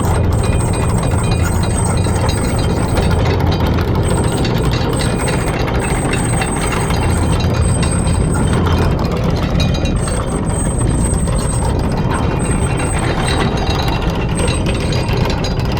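A boat's engine running steadily, with a dense mechanical rattle over a low hum.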